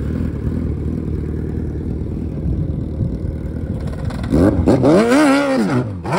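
Suzuki Hayabusa's inline-four engine running at low revs as the bike rolls down into a sandstone bowl, then revving hard up and back down about four seconds in as it climbs the steep far wall, with another short rev at the very end.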